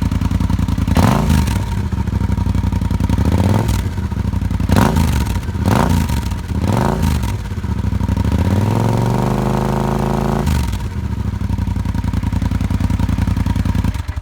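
2012 Yamaha Super Tenere's 1,199 cc parallel-twin engine idling through a stubby 14-inch Delkevic stainless tri-oval muffler with its sound adapter fitted inside. The throttle is blipped about five times. Then the engine is revved up and held for about two seconds before dropping back to idle.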